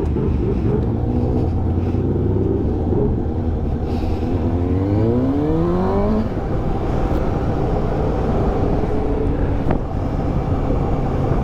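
Motorcycle engine running on the move, with a steady low drone and a rise in pitch about four to six seconds in as it accelerates.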